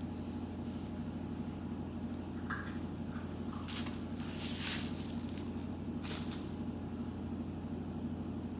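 A steady low hum runs throughout, with a few brief rustling or crunching noises in the middle.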